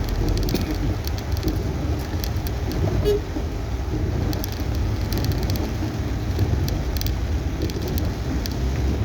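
Steady road and engine rumble inside a moving car in heavy rain, with rain striking the car body heard as scattered sharp ticks. A brief tone sounds about three seconds in.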